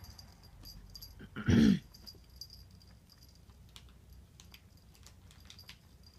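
A dog gives a single short, loud, low bark that falls in pitch about a second and a half in. Faint scattered clicks and taps sound around it.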